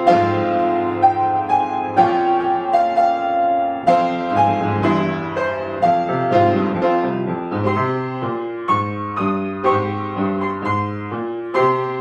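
Solo piano playing a piece with melody over accompaniment, notes struck and ringing; the notes come quicker and more evenly in the second half.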